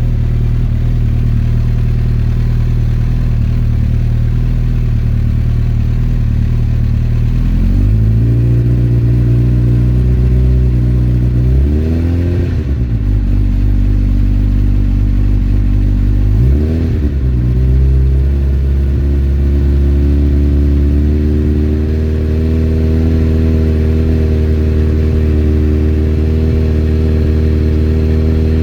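2008 Suzuki Hayabusa inline-four running through a full Akrapovic 4-into-1 exhaust. It runs steadily, then the revs are raised and held about eight seconds in. Two quick throttle blips rise and fall around twelve and seventeen seconds, and then the engine is held at steady, slightly rising revs.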